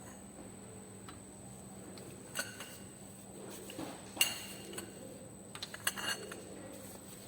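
A few faint metallic clinks of hand tools against the engine's cylinder-head bolts, one about two and a half seconds in, a louder one about four seconds in, and a small cluster around six seconds.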